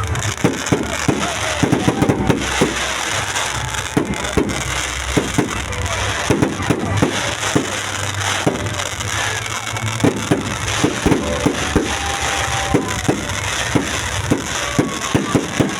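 Fireworks going off in a rapid, irregular string of sharp pops and crackles.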